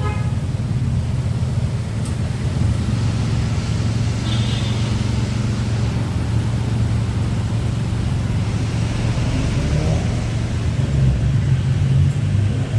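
Car engine running steadily with road rumble, a continuous low drone as if heard while driving.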